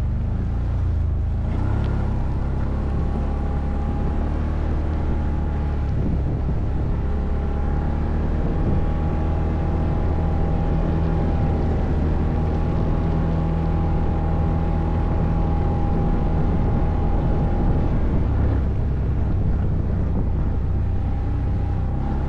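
ATV engine running under way off-road, its note mostly steady, shifting slightly about two seconds in and again near the end.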